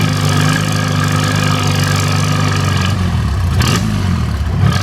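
Antique tractor engine running, its steady note dropping and turning rougher about three seconds in, with a brief burst of noise shortly after.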